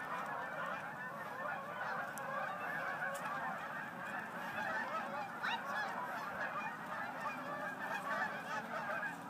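A large flock of geese honking together: a dense, unbroken chorus of many overlapping calls.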